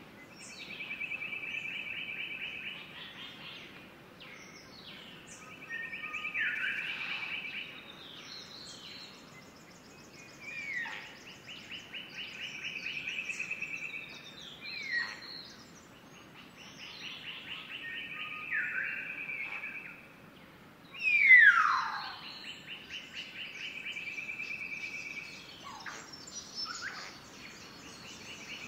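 Birds calling: a fast trilled phrase of about two seconds repeated every few seconds, with short calls sliding sharply downward in pitch between them, one much louder than the rest about two thirds of the way through.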